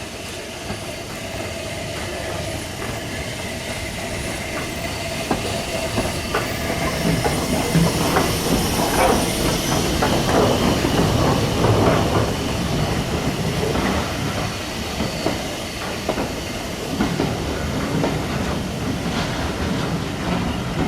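Steam-hauled train rolling past, its wheels clicking over the rail joints, growing louder toward the middle and then easing off.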